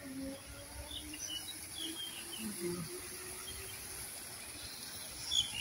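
Faint, scattered bird chirps over a steady high-pitched insect drone, with a low steady hum underneath.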